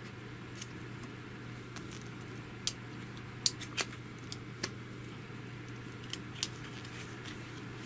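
Light clicks and ticks of a plastic screen-protector film and its backing being handled and peeled, about seven scattered sharp ones, loudest a little under 3 and 4 seconds in, over a steady low hum.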